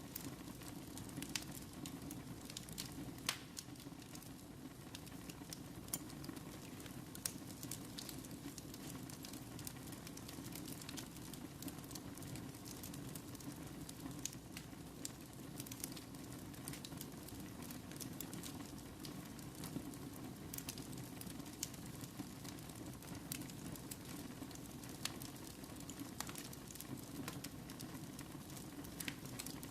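Wood fire burning in a fireplace: a steady low rush of flames with frequent sharp crackles and pops scattered irregularly throughout.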